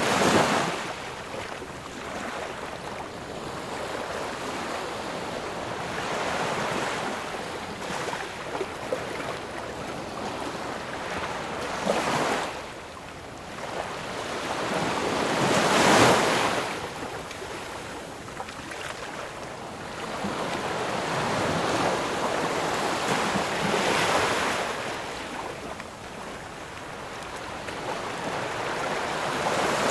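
Ocean surf: waves breaking and washing up the shore in slow swells, each building and falling away over several seconds, the loudest breaking about halfway through.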